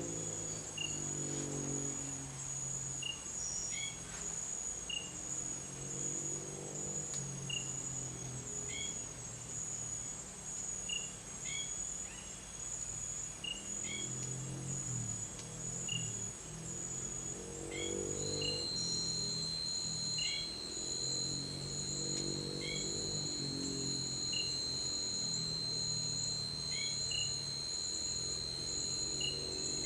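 Night-time insect chorus in tropical forest: a steady, high-pitched, pulsing cricket drone, with short chirps repeating about once a second. A second steady high insect tone joins about halfway through. A lower, uneven sound runs underneath.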